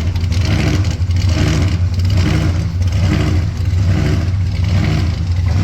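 A car engine running loudly and steadily at low revs, with a deep, even pulse and no revving up.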